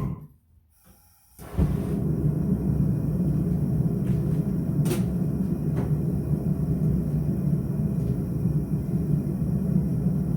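Forge running with a steady low rushing noise that comes in about a second and a half in after a brief drop-out, with one sharp click near the middle.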